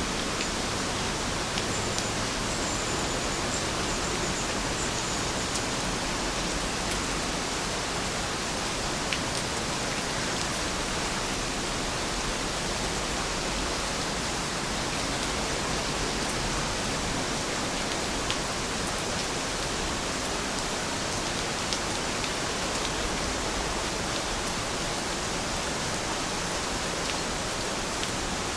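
Heavy rain falling steadily, an even hiss with a few faint drip-like ticks.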